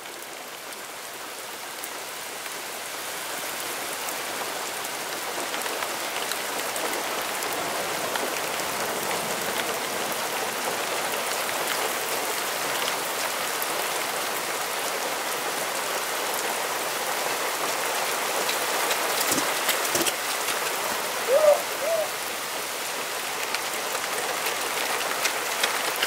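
Steady rain falling, growing a little louder over the first few seconds. A few sharp clicks and two short pitched sounds stand out about 20 seconds in.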